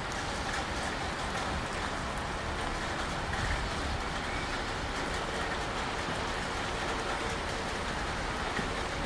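Train running on the track: a steady rolling rumble and rushing noise with a few faint clicks.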